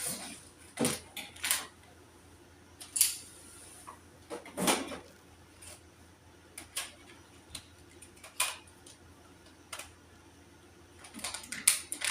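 Small household items being handled and sorted: scattered clicks, light knocks and rustles, with a longer rustle about halfway through and a quick run of clicks near the end.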